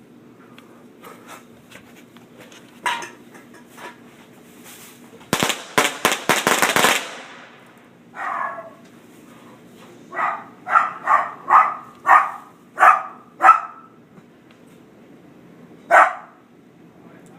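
A string of firecrackers goes off about five seconds in, a rapid run of sharp cracks lasting about a second and a half. A dog then barks, once, then in a steady run of six or seven barks, and once more near the end.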